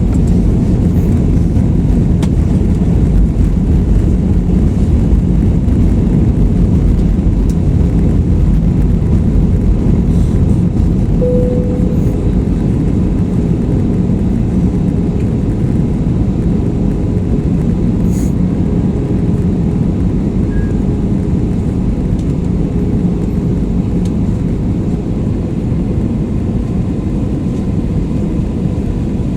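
Airbus A320 cabin noise in flight: the steady, loud rumble of the jet engines and airflow heard from inside the cabin, with a faint steady hum over it.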